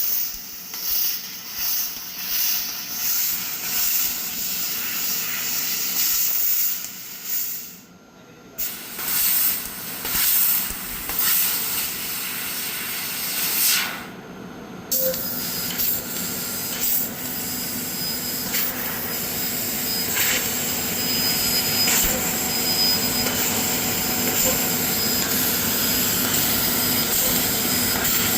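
CNC laser cutting machine cutting steel, a high hiss from the cutting head. It comes in short bursts at first, cuts out twice briefly, then runs steadily.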